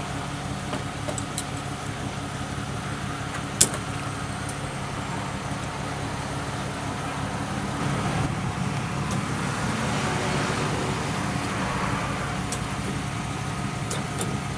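Motor vehicle engine running steadily, with one sharp click a few seconds in; the engine grows a little louder about halfway through.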